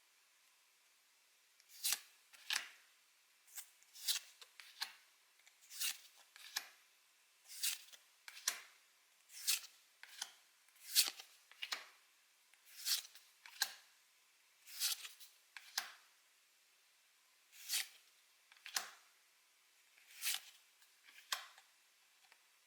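Pokémon trading cards being flipped through one at a time: short, crisp card slides that come in pairs about every two seconds.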